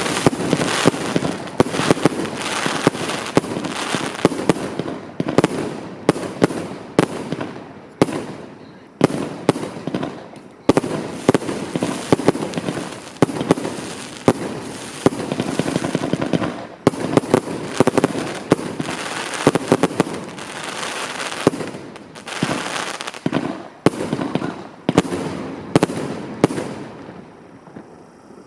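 Fireworks going off in quick succession: many sharp bangs over continuous crackling, thinning out and quieter near the end.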